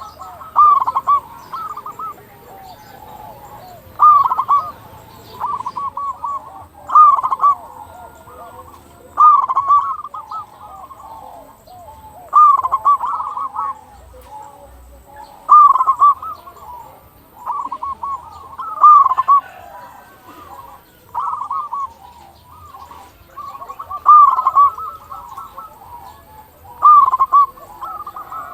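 Local zebra dove (perkutut) singing its cooing song. Loud phrases of quick, bubbling coo notes repeat about every three seconds, with fainter notes between them.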